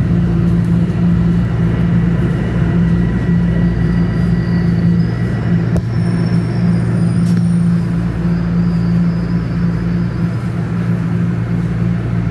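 Steady low rumble and hum inside a Toronto Line 1 subway car, with faint high tones drifting above it about halfway through.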